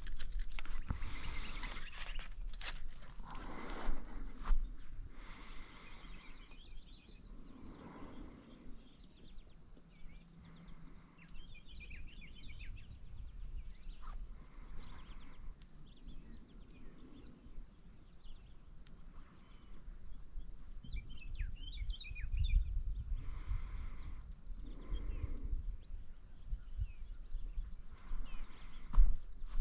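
Steady high-pitched chorus of insects such as crickets, holding several thin pitches throughout and thinning a little after the first few seconds, over a low background rumble with a few brief scattered noises.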